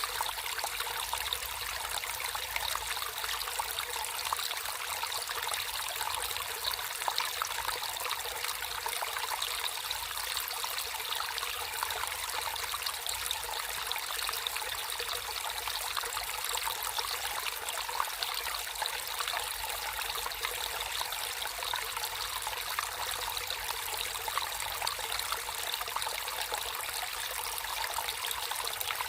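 Water flowing and trickling steadily, a continuous splashing hiss without pauses.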